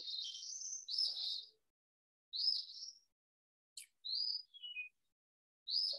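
A songbird chirping: a run of short, high calls about once a second, most rising quickly, one near the middle dropping in little steps.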